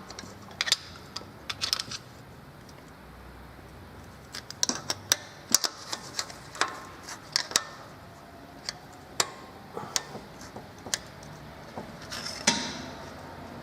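Irregular sharp metallic clicks and clinks as a steel rocker arm is worked by hand onto the valve stem and hydraulic lash adjuster in a Lada Niva's cylinder head. They come thickest a few seconds in, with a louder clack near the end.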